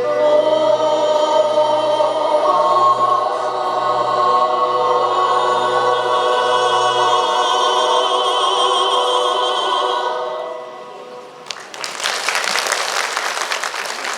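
School choir singing a long held closing chord with vibrato, which fades out about ten and a half seconds in. Audience applause breaks out about a second later.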